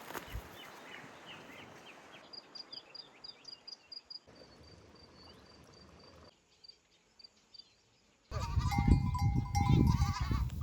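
Livestock bleating loudly from about eight seconds in, several animals calling over one another. Before that, faint high bird chirps, including a quick run of repeated high notes.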